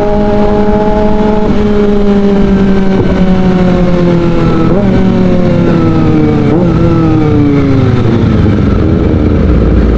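Kawasaki ZX-25R 249 cc inline-four with an Arrow Pro Race exhaust, header decatted, running on the road. Its pitch falls steadily as the revs drop, with two short throttle blips about five and six and a half seconds in.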